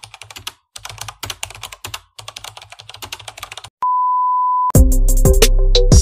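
Typing sound effect: quick keyboard clicks while on-screen text is typed out. About four seconds in, a steady beep of about a second, then loud music with a beat starts.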